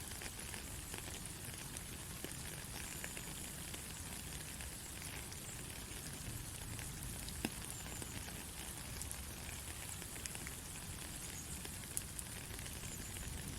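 Steady soft rain, an even hiss of falling drops, with a few sharper single drop ticks about halfway and near the end.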